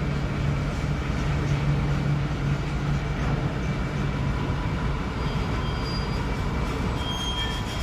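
Harsh noise music: a dense, steady rumbling wall of noise with a low hum in the first few seconds and thin high whistling tones near the end.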